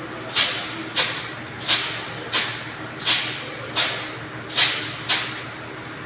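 Eight short, sharp hissing sprays, one about every two-thirds of a second, over a steady low background noise.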